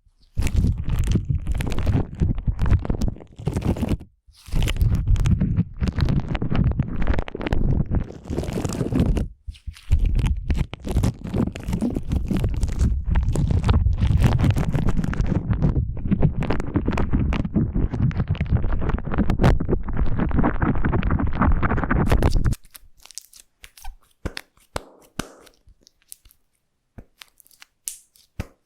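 Slime being squished and worked close to the microphone: dense, wet squelching and crackly popping of trapped air, with short breaks twice. About three-quarters of the way through it stops, leaving only scattered faint clicks and taps.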